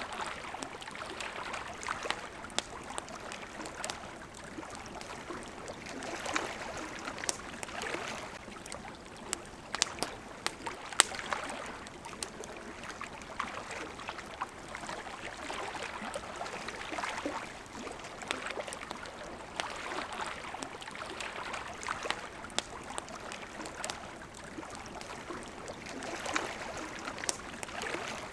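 Water lapping at a shore in gentle swells every few seconds, with a campfire crackling over it: scattered sharp pops and snaps, one louder pop about eleven seconds in.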